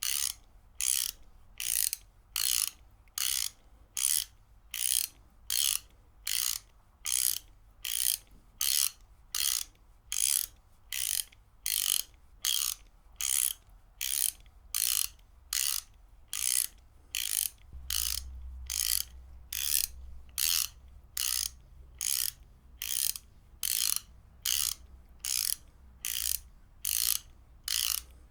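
Ratchet wrench clicking in short, evenly spaced bursts, about one and a half a second, as it is worked back and forth.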